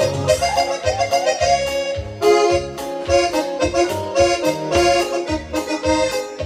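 Live band playing an instrumental song intro: an accordion carries the melody over a steady bass-and-drum beat.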